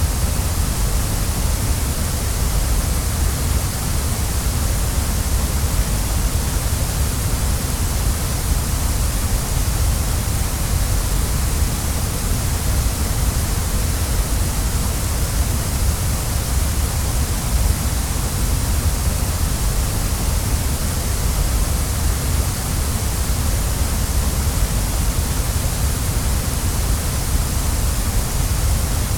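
Waterfall: a steady, unbroken rush of falling water, with a deep low rumble under a bright hiss.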